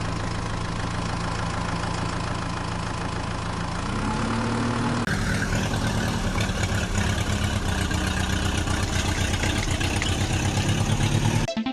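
Engine sound effect of a heavy vehicle: a steady idle that rises in pitch about four seconds in, then cuts to a louder, pulsing engine run a second later.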